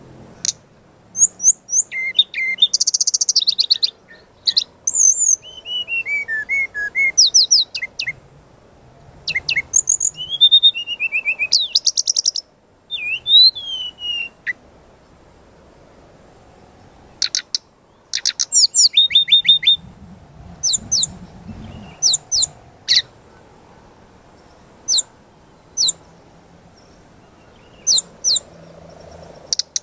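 Brown-chested jungle flycatcher (sikatan rimba dada coklat) singing loudly in varied bursts of high whistles, trills and sharp quick notes, with pauses of a few seconds between phrases.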